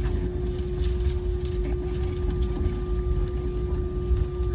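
Airliner cabin noise: a steady low rumble with a constant droning hum, and a few faint light ticks.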